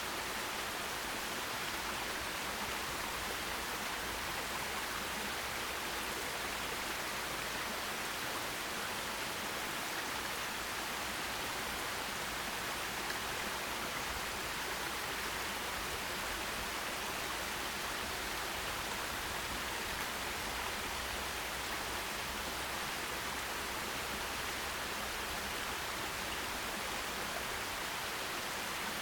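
Forest stream running over rocks, a steady even rush of water.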